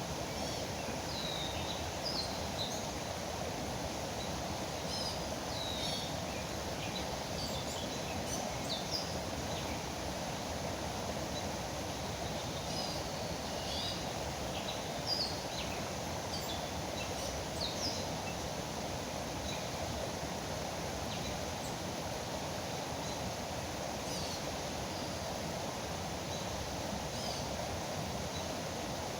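River water flowing steadily, with birds giving short, high chirps scattered through the first half or so.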